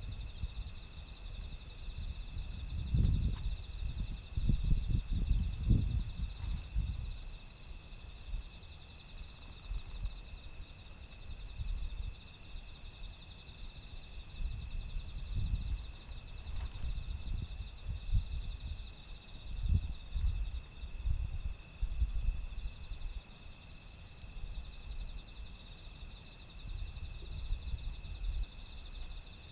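Insects, crickets among them, trilling steadily in a chorus, with gusts of typhoon wind buffeting the microphone in low rumbles that come and go.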